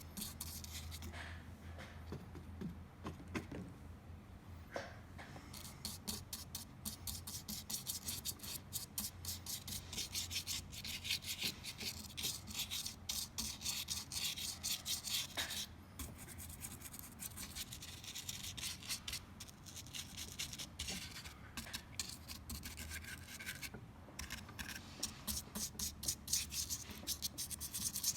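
Paintbrush scrubbing and dabbing acrylic paint onto hardened spray foam, a long run of short scratchy strokes several a second, over a low steady hum.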